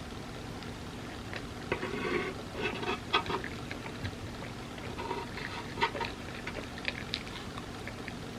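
Close-miked eating of soft, creamy crepe cake: irregular wet chewing and smacking with small mouth clicks, busiest about two to three seconds in and again around six seconds.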